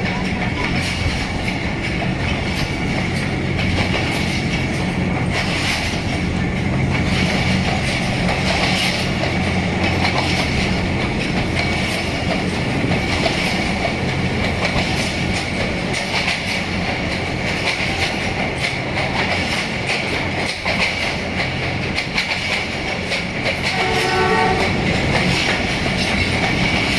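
ZCU-20 diesel-electric locomotive hauling a passenger train at speed: a steady engine drone with wheels clicking over the rail joints. A short blast of the locomotive horn sounds near the end.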